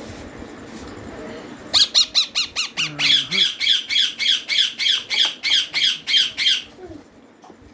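Ringneck parakeet chicks giving rapid, harsh begging calls at feeding time, about five a second, for roughly five seconds before stopping abruptly.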